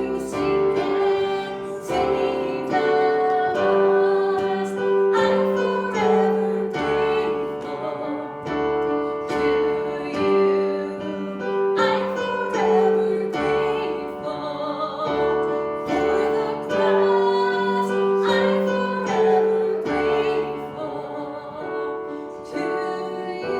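Music: a slow song sung with piano accompaniment, with long held notes.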